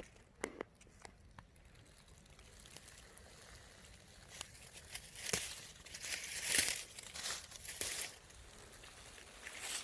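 Rustling and crinkling of dry leaves and plant stems, with a few sharp clicks at first, then irregular bursts that grow louder after about four seconds.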